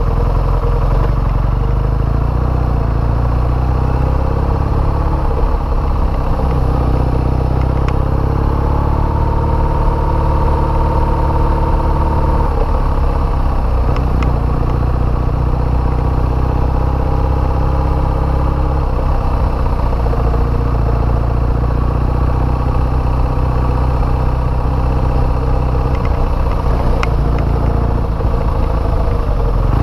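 BMW motorcycle engine running steadily as the bike is ridden at low speed, with a slight rise in engine pitch partway through and a few light clicks.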